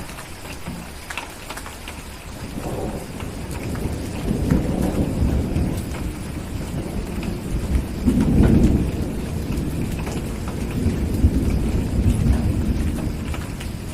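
Thunder rolling over steady rain, the low rumble swelling in waves from a few seconds in and loudest about eight seconds in, with the small pops of a crackling wood fire throughout.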